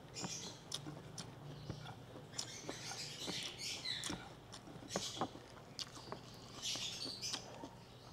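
Close-up mouth sounds of a person eating rice and sautéed bamboo shoots by hand: chewing with many small, irregular wet clicks and smacks.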